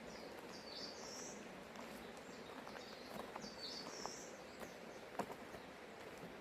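A songbird singing the same short phrase twice, about three seconds apart, over a steady low hush of forest ambience with a few faint ticks.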